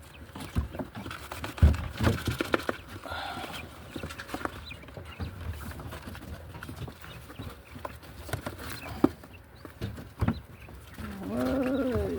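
Pet hens making short calls, mixed with scattered sharp taps and knocks. A longer rising call comes near the end.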